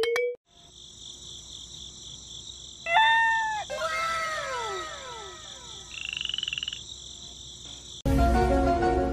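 A steady, pulsing, high-pitched chirring nature ambience, with a cluster of falling twinkly tones about three to five seconds in and a short buzzy tone around six seconds. Near the end, a louder musical sound effect of layered chiming notes comes in.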